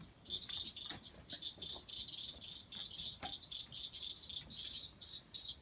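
Chorus of frogs calling from the swamp: a dense, continuous stream of rapid high chirps, with a few sharp clicks scattered through it.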